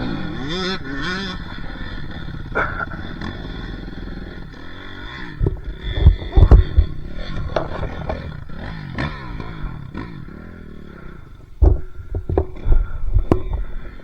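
Dirt bike engine revving up and down, with clusters of heavy thumps about halfway through and again near the end.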